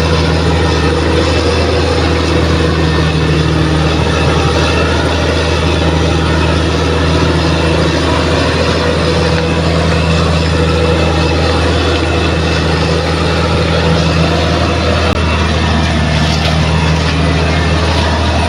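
Bulldozer's heavy diesel engine running steadily under load, a deep, constant drone with mechanical clatter over it.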